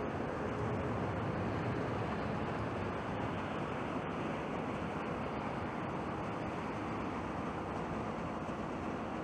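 Low, steady jet roar of a four-engined Boeing 747-400F freighter climbing away after takeoff, slowly fading.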